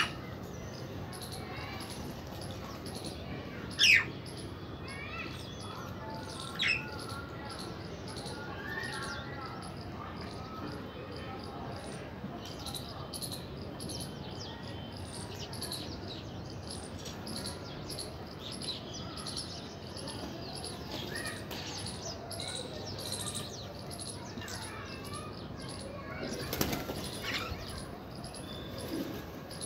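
House crows and mynas calling, with scattered chirps throughout and two loud, sharp calls about 4 and 7 seconds in. A louder flurry of flapping wings comes near the end.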